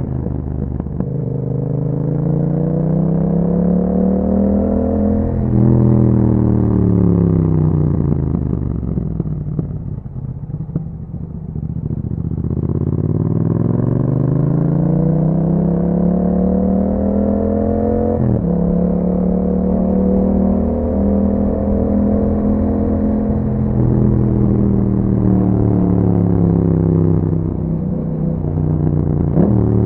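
2021 Yamaha MT-07's parallel-twin engine through an Akrapovič exhaust while riding. It revs up for about five seconds, then eases off and slows, going quieter for a few seconds. It pulls up again to a gear change about eighteen seconds in, holds a steady cruise, and picks up again near the end.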